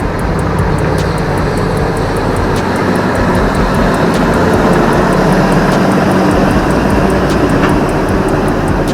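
Bulldozer's diesel engine running hard under load with a steady drone, as the machine pulls on a cable to bring down a large tree.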